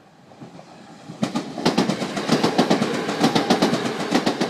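Train wheels clattering in a fast, steady clickety-clack over rail joints. The clatter starts faint and comes in loudly about a second in.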